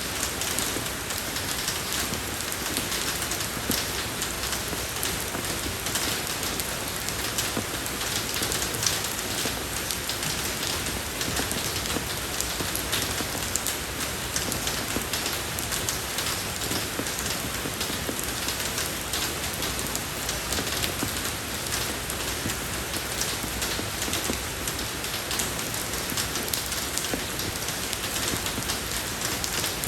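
Steady rain falling on a road surface, a dense even hiss with many small drop patters and no pauses.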